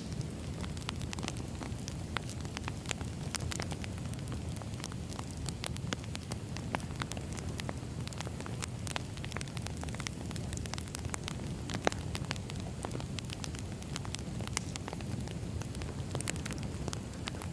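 Crackling campfire: a steady low rumble of burning with irregular pops and crackles throughout.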